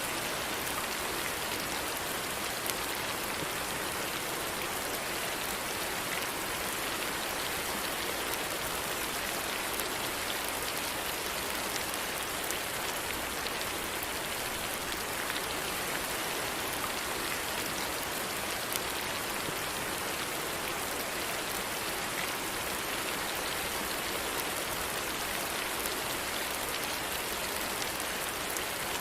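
Steady rain falling, an even hiss with the patter of individual drops.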